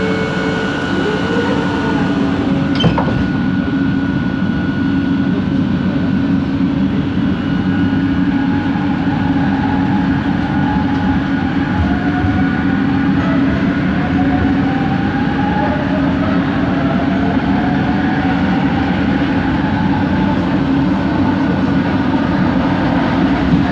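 Bombardier ART Mark II metro car with linear induction motors, heard from inside while running: a steady rumble and hum with whining motor tones. Several rising whines sound partway through, and there is one sharp click about three seconds in. This is the unusual motor noise of the original Kelana Jaya Line trains.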